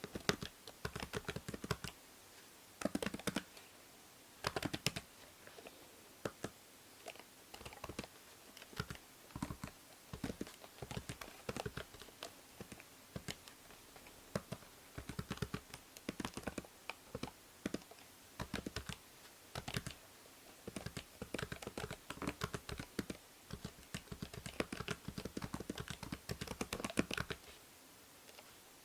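Computer keyboard typing in quick irregular bursts of key clicks with short pauses between, over a faint steady hiss from a binaural microphone.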